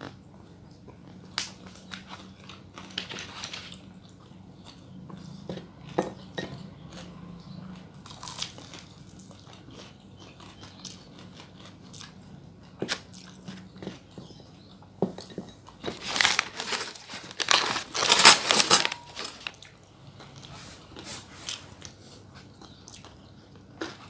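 Close-miked mouth sounds of someone eating: chewing and biting with scattered small clicks, and a louder stretch of crunching lasting about three seconds about two-thirds of the way through.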